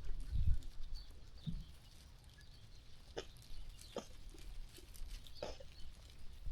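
Sheep moving about and grazing: a few low thuds in the first second and a half, then scattered sharp clicks of hooves and feeding. No bleating.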